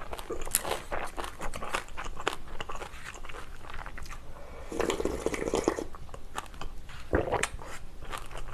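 Close-miked chewing and crunching of crisp food, a run of wet, crisp bites, typical of pickled cucumber (oiji). About five seconds in comes a second of sipping from a bowl, and a single knock about two seconds later.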